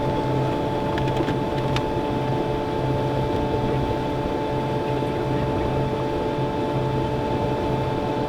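A motorboat's engine running steadily, with a low hum that throbs unevenly under a steady whine.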